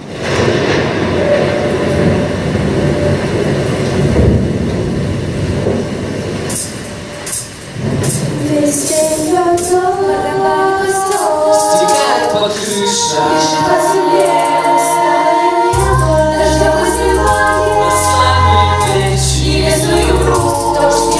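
A children's vocal ensemble singing a pop song over a backing track, with the voices coming in about eight seconds in and a bass line joining at about sixteen seconds. Before the voices come in there is a steady noisy rush.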